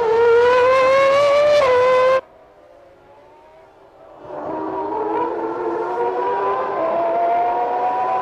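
Formula One car engine at high revs, climbing in pitch with a quick upshift, then cut off abruptly about two seconds in. From about four seconds in another F1 engine runs at high, fairly steady revs, quieter, with another gear change near the end.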